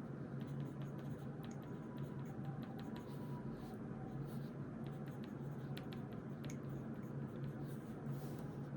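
Writing by hand on notebook paper: irregular light scratches and ticks of a pen or pencil tip, over a steady low hum in the room.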